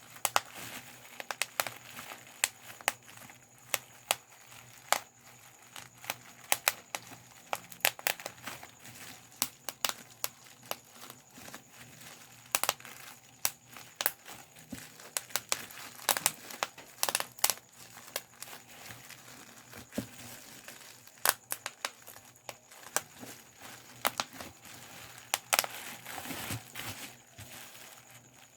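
Bubble wrap being popped by hand: irregular sharp pops, sometimes in quick clusters, with the plastic sheet crinkling between them.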